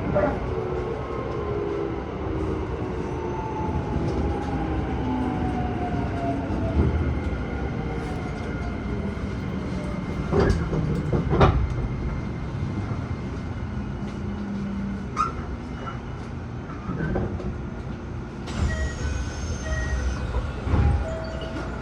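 Keisei 3000-series electric train running on the rails, its motor whine falling slowly in pitch as it slows. Two sharp wheel knocks over the rail come about a second apart midway.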